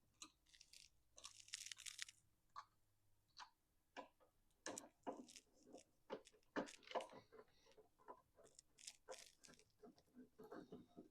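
Faint hands-on handling noises: scattered small clicks and taps, with a short crinkly rustle between about one and two seconds in.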